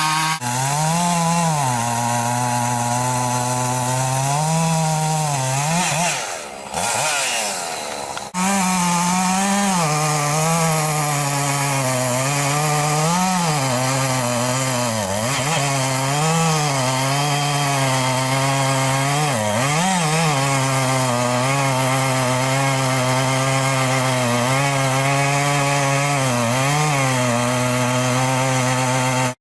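Chainsaw engine running at high revs and cutting, its pitch wavering up and down as the chain loads and frees. The pitch sags and drops about six to eight seconds in, then it picks up again and runs on until it stops abruptly.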